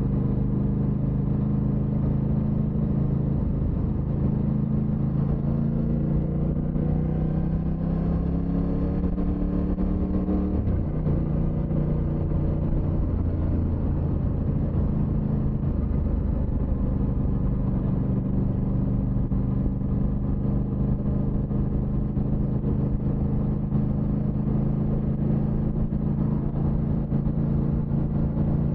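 Aprilia motorcycle engine running under way. Its pitch climbs steadily for several seconds as it accelerates, drops suddenly at a gear change about ten seconds in, then holds steady.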